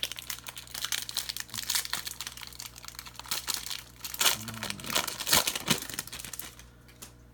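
Trading-card pack wrapper being torn open and crinkled by hand: a dense run of crackling, loudest a little past the middle.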